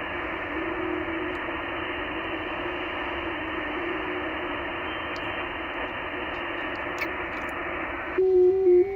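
Shortwave transceiver audio on the 40 m band: steady hiss of band noise with a faint warbling FT8 data tone stepping in pitch. About eight seconds in, the hiss cuts off and a louder stepping FT8 tone takes over.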